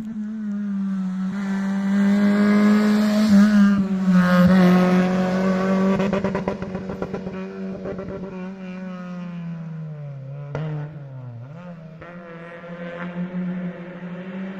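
Historic rally car engine held at high revs as the car passes on a stage. It grows louder to a peak about four seconds in, then fades as it goes away. A rapid rattling crackle comes in the middle, and about ten seconds in the revs drop briefly and climb again.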